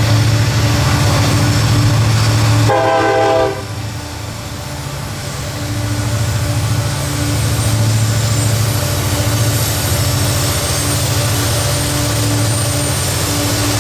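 Diesel locomotive engines rumbling steadily as a train works past, with a brief horn blast about three seconds in that cuts off sharply.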